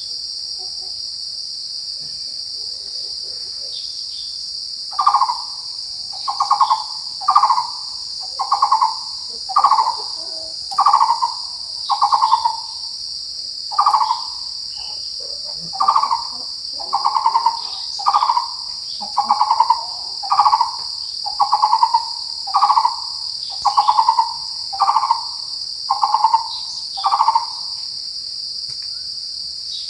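Taiwan barbet giving its repeated, hollow low call, about one note a second, starting about five seconds in and stopping near the end. A steady high-pitched insect drone runs under it.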